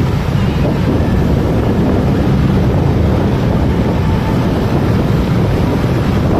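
Steady wind rushing over the microphone of a moving motorcycle, over a low, even rumble of the ride.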